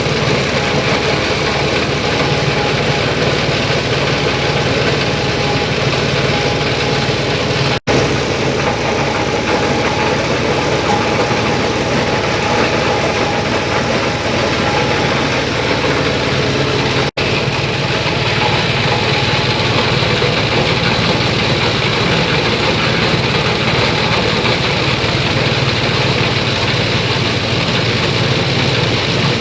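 Cloth-grinding machine with an 8 mm screen running steadily: a continuous loud mechanical drone with a low hum beneath it. It breaks off for an instant twice, about 8 and 17 seconds in.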